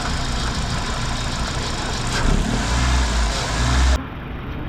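Toyota Altis 1.6-litre four-cylinder engine running on four newly fitted ignition coils; it gets louder and deeper from about two seconds in, as when revved. The sound cuts off abruptly about four seconds in.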